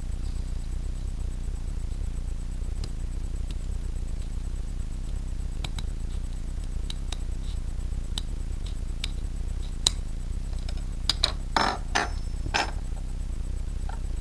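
Scattered light clicks and clinks of small hard objects being handled, with a quick run of louder clinks about eleven to twelve and a half seconds in, over a steady low hum.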